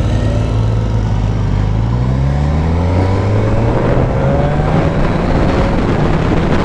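Suzuki GSX-S1000F motorcycle's inline-four engine pulling away under acceleration, its pitch climbing steadily through the gears, over a rush of wind.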